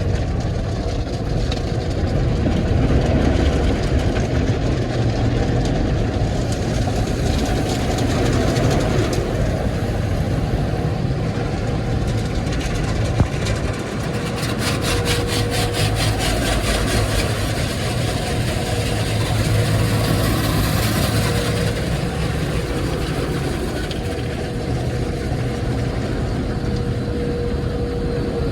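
Automatic car wash working over the car, heard from inside the cabin: a steady rush of water spray and machinery over a low rumble, brighter through the middle with a rapid patter of jets on the bodywork about halfway through. The car's engine is left idling.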